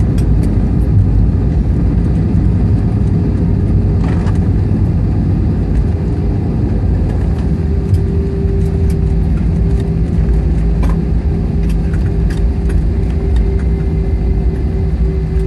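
Steady low engine and motion rumble heard from inside a moving vehicle, with a steady hum joining in about seven seconds in.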